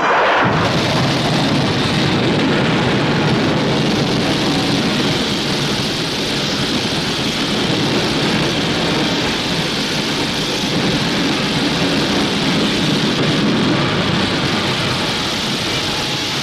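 A loud, steady rushing noise that sets in abruptly right at the start and holds without a break.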